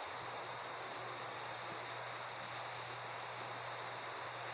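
Steady high-pitched hiss with a low, even hum underneath.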